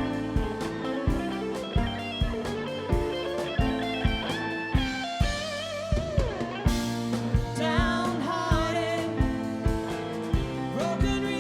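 Live rock band playing a mid-tempo song: drum kit beating steadily, with electric guitars and keys holding chords. A lead melody with bends and vibrato comes in around the middle.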